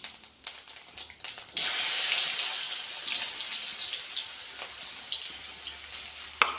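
Chopped onion sizzling loudly as it goes into hot oil with mustard and cumin seeds in a kadhai, starting suddenly about a second and a half in after a few light knocks, then hissing steadily and easing slightly.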